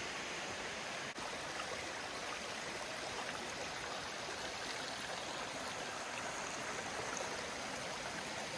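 Mountain stream running steadily, a continuous rush of flowing water, with a brief dropout about a second in.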